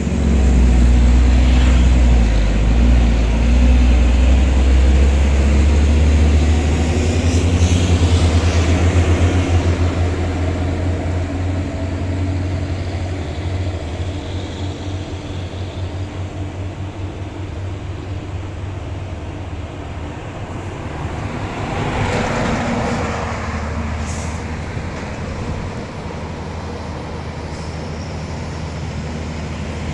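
Diesel truck engine pulling hard up a hill, a deep steady drone, loudest for about the first ten seconds and then fading as the truck moves off. A brief rush of passing-vehicle noise comes about two-thirds of the way in.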